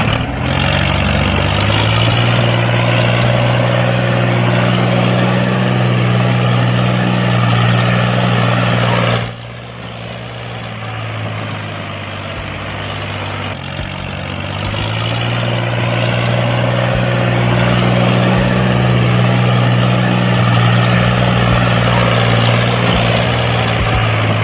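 A motor running steadily with a low hum. About nine seconds in it drops suddenly in level and pitch, then speeds back up from about fourteen seconds and runs steadily again.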